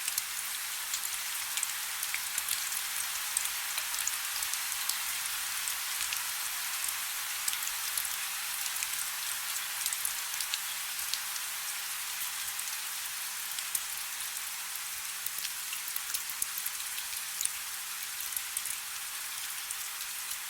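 Soft rain falling steadily: an even hiss with many small drop ticks.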